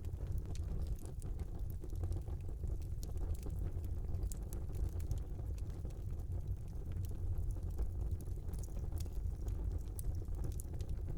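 Wood fire burning in a small fireplace: a steady low rumble of flames with frequent small, sharp crackles and pops scattered throughout.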